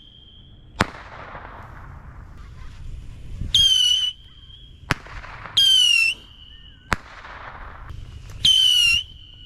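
Neon Moon Traveler whistling fireworks going off in turn: each lets out a loud, shrill whistle that dips slightly in pitch and then holds a thinner tone, ending in a sharp bang that echoes. Three bangs and three whistles, roughly every two to three seconds.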